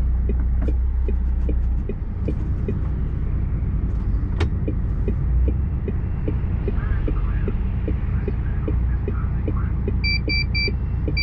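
Lorry's diesel engine idling with a steady low rumble, heard from inside the cab, over a regular clicking of about two to three clicks a second, typical of the turn indicator set for a left turn. Near the end, three short high beeps and then a longer one.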